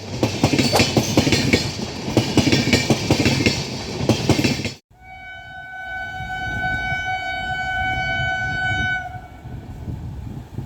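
Train running past with rapid irregular clacks of wheels over rail joints; after an abrupt cut, a WAP7 electric locomotive's horn sounds one long steady note of about four seconds over the low rumble of the train.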